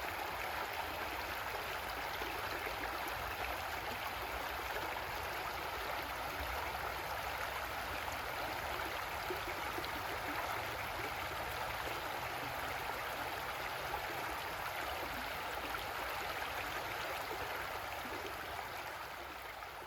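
Creek water flowing and gurgling steadily over rocks, a continuous rushing babble.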